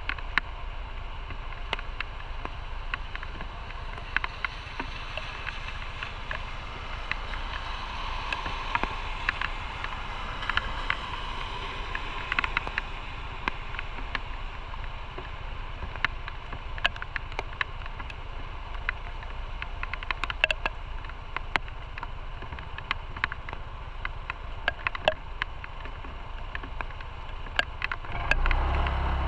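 Motorcycle under way, heard from on the bike: a steady rush of engine, wind and road noise with many sharp ticks scattered through it. Near the end the engine comes up louder and more clearly pitched as the bike accelerates.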